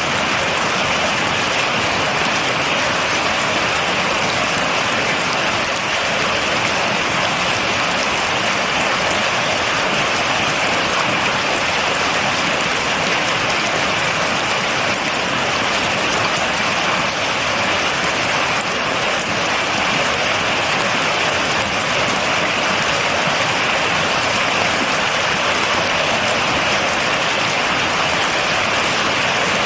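Steady, heavy rain falling, a dense even hiss with fine crackling drop impacts and no thunder.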